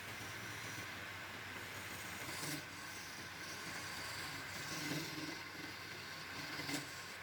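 A woodworking power tool running steadily with scraping noise, and a few light knocks along the way.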